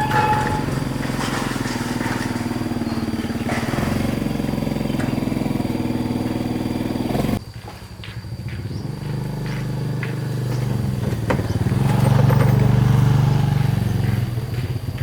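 An engine running steadily, cut off suddenly about halfway through, then running again and growing louder near the end.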